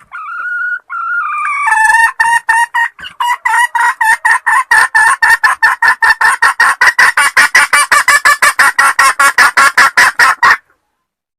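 Junglefowl hen calling: a few drawn-out notes, then a long fast run of clucks, about five a second, that stops suddenly near the end. This is the hen's call used to lure a male.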